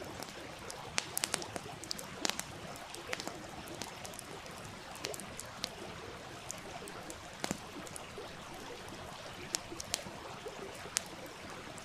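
Wood campfire crackling with irregular sharp pops, some in quick clusters, over the steady rush of a small stream.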